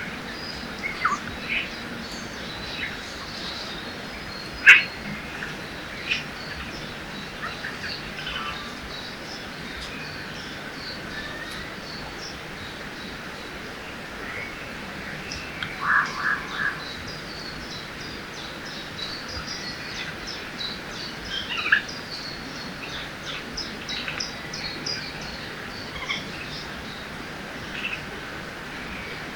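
Forest ambience by a river: many birds chirping and calling over a steady rushing background. A sharp, loud call comes about five seconds in, and a quick run of three or four lower notes about sixteen seconds in.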